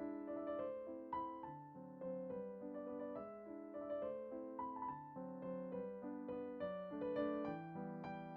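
Background music: a gentle piano melody of struck notes at a moderate, even pace.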